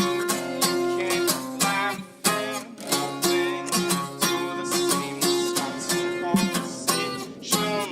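Acoustic guitar picking a run of quick plucked notes over ringing low chord notes, an instrumental passage of a song without vocals.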